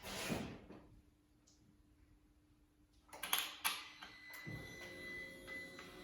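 Sharp clicks and knocks of a car's door and controls being handled. About four and a half seconds in, a faint steady hum with a thin high whine begins.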